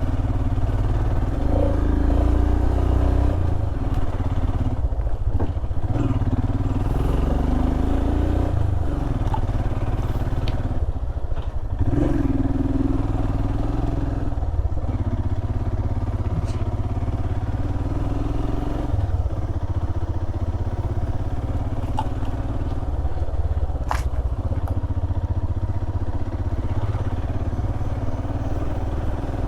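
Royal Enfield Himalayan's 411 cc single-cylinder engine running as the motorcycle is ridden, its revs rising and falling. A few sharp clicks and clatters are heard along the way.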